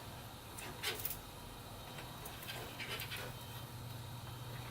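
Faint scrapes and ticks of a cable being handled and pushed through a computer case's cable routing, a few short ones about a second in and again around three seconds in.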